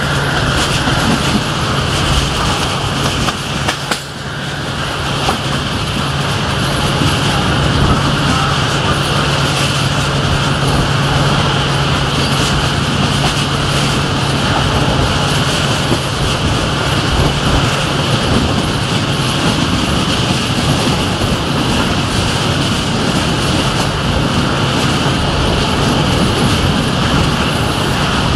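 Passenger train running at speed, heard from a coach window: steady rush of wind and rail noise over the low, even drone of an LDH diesel-hydraulic locomotive.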